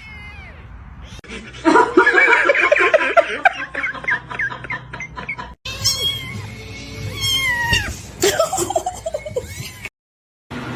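Domestic cats meowing across short spliced clips. A dense run of quick pitched calls is followed by separate meows that fall in pitch, and the sound cuts off abruptly between clips.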